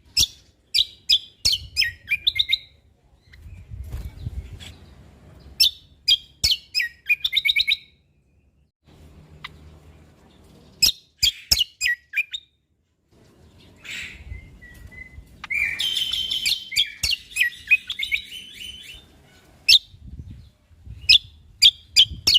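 Cucak kombo (kecial kombok) songbird singing: short runs of rapid, sharp high chirps repeated again and again, with a longer, denser warbling phrase about two-thirds of the way through, over a faint low rumble.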